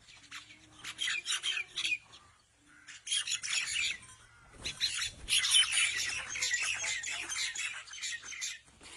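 Birds chirping and twittering rapidly in bursts: one starting about a second in, another around three seconds, and a longer, louder one through the second half.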